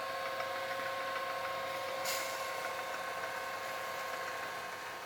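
Homemade electric rotisserie spit's gear motor running with a steady whine, with a single click about two seconds in.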